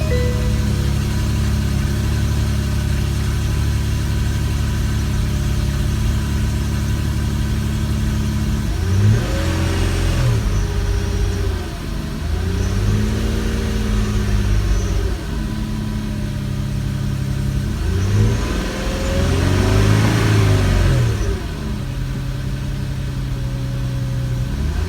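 Nissan Skyline Crossover 370GT's 3.7-litre VQ V6 idling steadily just after starting, then revved three times, the pitch rising and falling each time, before settling back to idle near the end.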